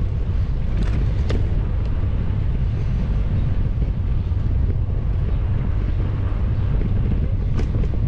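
Wind buffeting the microphone of a bike-mounted GoPro while riding, a steady low rumble, with a few faint ticks.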